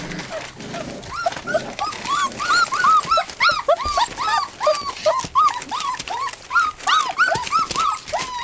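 American Bulldog–Siberian Husky mix puppies whining and whimpering in a quick run of short, high, rising-and-falling cries, several a second, starting about a second in.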